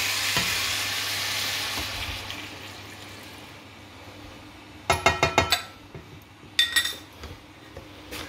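Chicken and carrots sizzling in a wok, the sizzle dying away over the first few seconds as the stock-and-soy sauce is poured in. Then two short runs of clattering knocks, about five and six and a half seconds in.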